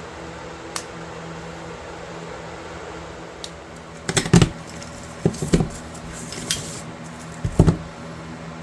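Knocks and clinks of small hard objects being handled, in several short clusters from about four seconds in, over a steady hum.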